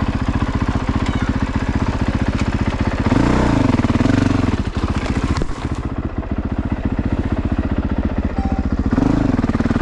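Honda CRF450RX's 450 cc single-cylinder four-stroke engine running at low revs, revved up briefly about three seconds in and again near the end.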